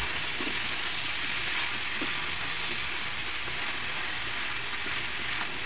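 Squash and string beans frying in pork fat and oil in a wok, a steady crackling sizzle.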